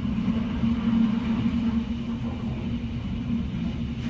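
Hurricane-force wind rumbling steadily outside, heard from inside a building, with a steady low hum underneath.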